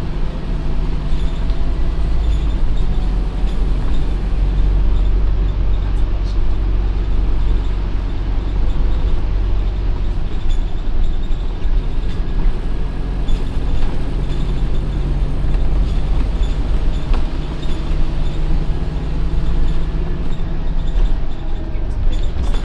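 Scania OmniCity N230UD double-decker bus running: a steady low rumble with an engine hum whose pitch shifts slightly now and then.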